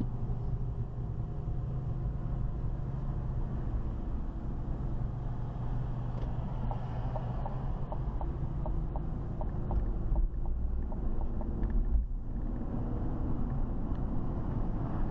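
Vehicle driving, heard from a dashcam: steady engine and road noise, with a run of light ticks in the middle.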